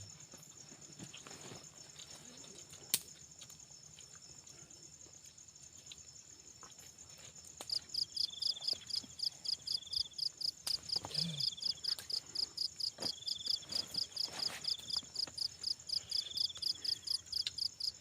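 Night insects calling: a steady high-pitched cricket-like trill, joined about eight seconds in by a loud, evenly pulsing call at about four pulses a second, with a softer trill repeating every couple of seconds.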